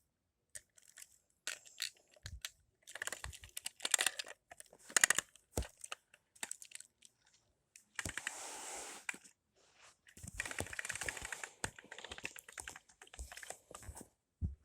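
Toy trains and track being handled by hand: irregular small clicks and rattles of plastic pieces, with a short hiss about 8 seconds in and a denser stretch of crackling rattles soon after.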